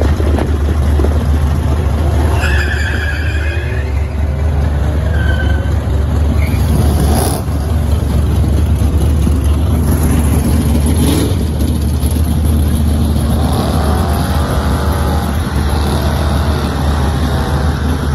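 Two Volkswagen 1.8-litre turbocharged four-cylinder cars, a Jetta and a GTI, launching side by side down a drag strip, their engines revving hard as they accelerate away.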